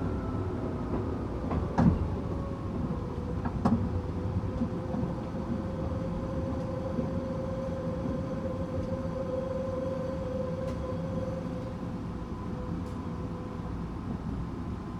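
Onboard running sound of a Tokyu 8500 series electric train with Toyo traction motors. The motor whine falls in pitch over the first few seconds as the train slows, then holds at a steady pitch over the rumble of the wheels. Two sharp wheel clacks come about two and four seconds in.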